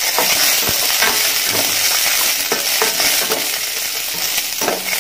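Cashew nuts and raisins sizzling in hot ghee in a metal kadai, with a slotted metal spoon stirring them and scraping against the pan in short irregular strokes over a steady hiss.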